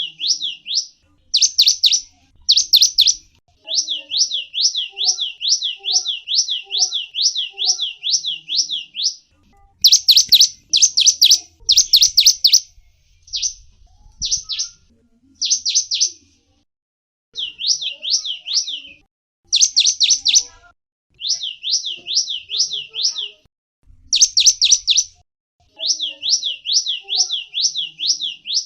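A gelatik wingko songbird singing rapid high-pitched phrases: quick strings of short notes that each sweep down, many a second, in bursts of one to a few seconds separated by brief pauses, with some louder, sharper note groups among them.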